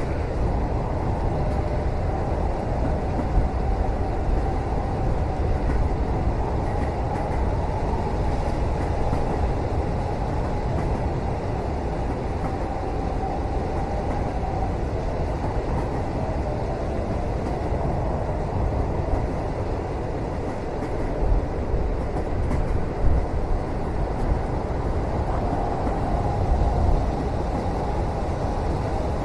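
Steady low rumble of a moving train heard from inside a passenger cabin, a continuous running noise with no distinct wheel clicks.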